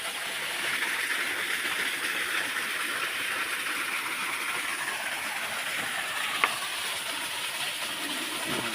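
Steady rushing of a waterfall, with one sharp click about six and a half seconds in.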